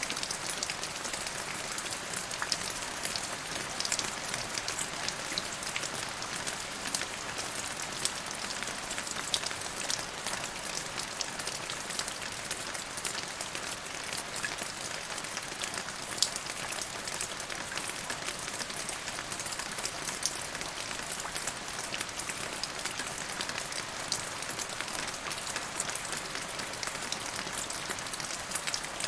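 Steady rain falling, a dense hiss dotted with many individual drop ticks and a few louder single drops.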